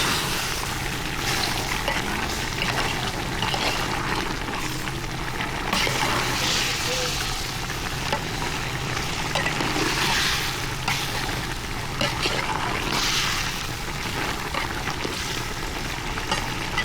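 Water pouring and trickling, in hissing spells of a second or so every few seconds, over a steady low hum.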